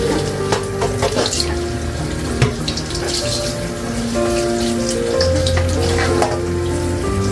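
Kitchen tap running water into a sink, with a few light knocks, over soft background music. The running water cuts off suddenly at the end.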